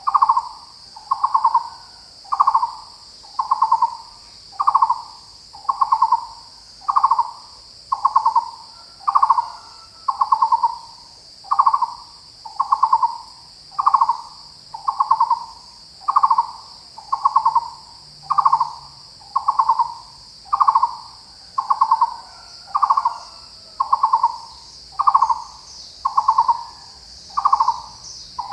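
Taiwan barbet calling: a hollow, low note, each a quick pulsed run, repeated monotonously about once a second. Insects shrill steadily behind it in a high, even band.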